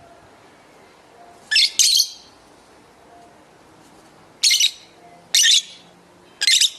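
Lovebird giving five short, shrill calls: two in quick succession, then three more about a second apart.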